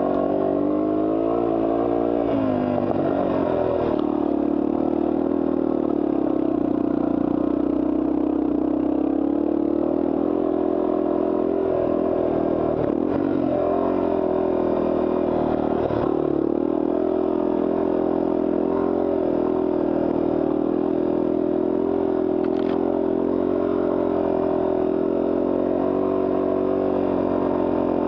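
Yamaha TW200's single-cylinder four-stroke engine running under way on a trail ride, its pitch dipping and rising in the first couple of seconds and then holding steady.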